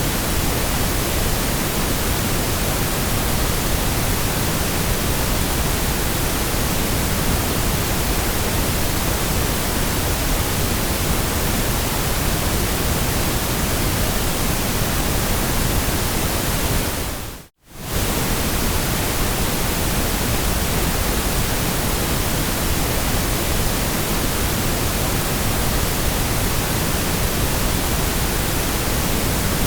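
Steady hiss of generated white noise, spread evenly from the lowest to the highest pitches. About two-thirds of the way through it fades out to silence for a fraction of a second and comes straight back.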